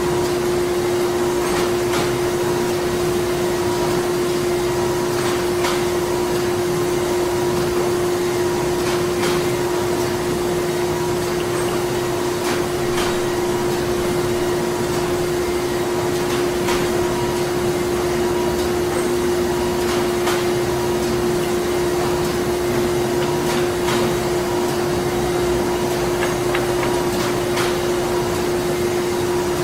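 Printing-factory machinery running continuously: a steady mechanical drone with a strong constant hum and a fainter, higher whine, with light clicks and taps from the machines every second or two.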